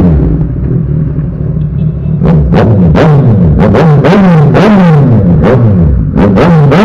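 Kawasaki Z1000 inline-four motorcycle engine through an Austin Racing exhaust, revved hard in quick repeated throttle blips, each sharp rise falling away, about two a second. The exhaust has a loud, high-pitched scream.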